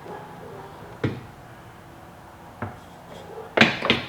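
Knocks and clatter of a radiator part being handled and pushed into place: a single knock about a second in, another a moment later, then a quick run of louder clatters near the end.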